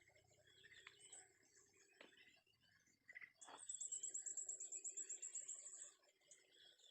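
Faint forest ambience: birds chirping, and about halfway through a very high, rapid trill that lasts about two seconds.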